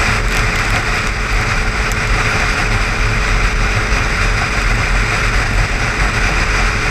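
Car driving at highway speed: steady road and tyre noise with a low rumble underneath and a faint steady hum.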